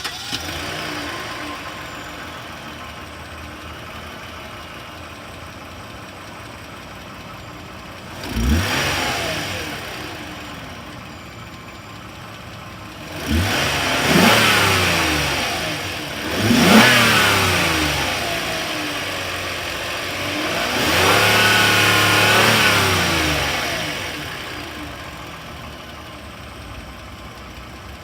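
Toyota 2GR-FE 3.5-litre V6 of a 2007 Sienna minivan, fully warm, idling fast just after a hot start and then revved four times. The last rev is held for a couple of seconds before it drops back to idle. It is heard from inside the engine bay.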